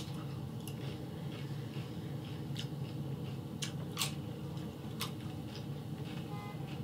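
Close-up eating sounds: a tortilla chip crunched and chewed, with scattered sharp wet smacks from lips and licked fingers. Near the end a distant car alarm starts, faint short beeps in an even repeating pattern.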